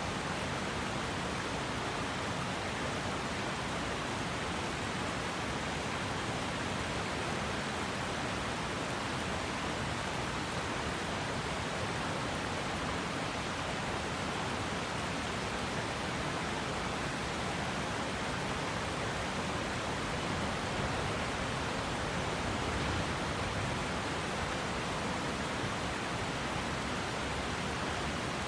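Okurushibe River flowing: a steady, even rush of water.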